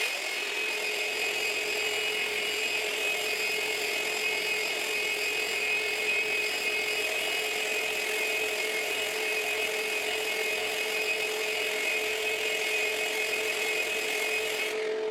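Electric sander running steadily on a wooden workbench top, a constant motor whine over a gritty sanding hiss.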